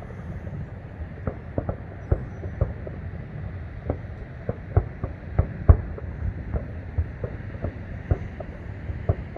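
Distant fireworks bursting: a rapid, irregular string of booms and pops, about two or three a second, over a steady low rumble. The loudest burst comes a little past halfway.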